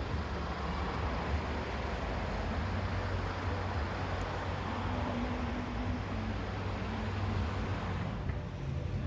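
Steady low rumble and road noise of a vehicle or traffic, with no distinct events.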